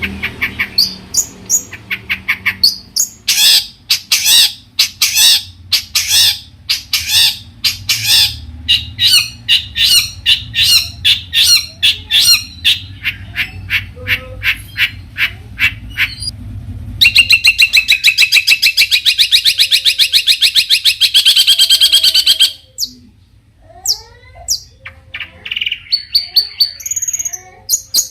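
Long-tailed shrike singing loudly: a long run of harsh repeated notes that speed up, then a rapid, buzzy chatter for about five seconds, then a mix of varied whistled, gliding notes.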